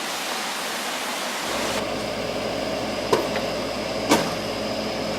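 Steady rushing noise. About a second and a half in, a low hum with a faint steady tone joins it, and two sharp clicks come later, about a second apart.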